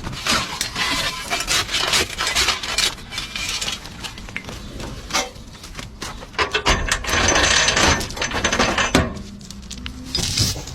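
Metal objects clanking and rattling as they are handled and moved about, with many sharp knocks and a louder clatter of scraping about two-thirds of the way through.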